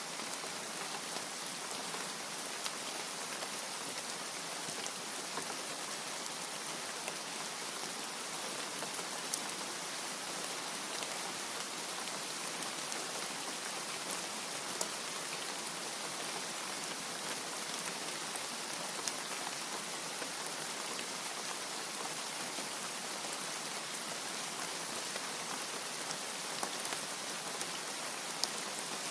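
Steady heavy rain, an even hiss with scattered sharper drop ticks.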